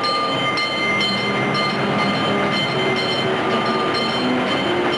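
Train running along the track, with steady rumble and regular clicks of the wheels over rail joints, about two a second.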